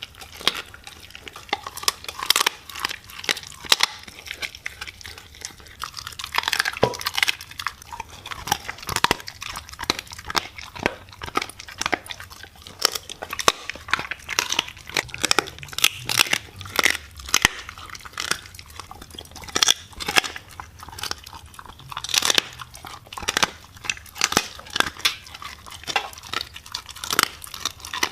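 A dog chewing and crunching something hard, with many irregular crunches, several a second, throughout.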